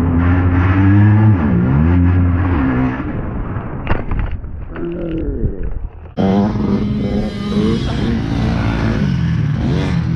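Motorcycle engine running under throttle, its pitch rising and falling as the revs change. There is a sharp knock about four seconds in, a short dip, and then the engine returns abruptly about six seconds in.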